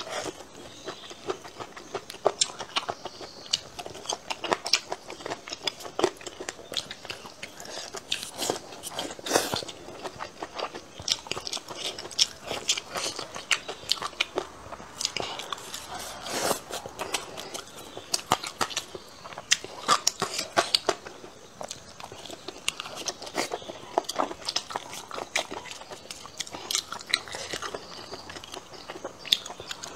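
Close-miked chewing and biting of stir-fried boneless chicken feet and green beans: a steady run of wet mouth clicks and crunches in no regular rhythm.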